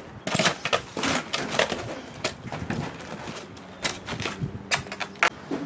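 Irregular bumps, knocks and scrapes of a new GE clothes dryer's metal cabinet being wrestled and dragged through a tight doorway.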